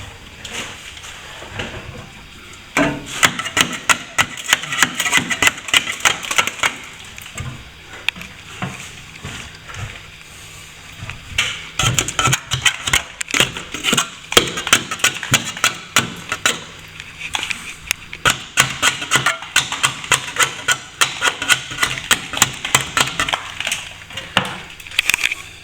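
Steel plastering trowel scraping and clicking against plaster and its hawk as filler is worked into a ceiling-to-wall crack, in long spells of quick, irregular scrapes and taps with short pauses between.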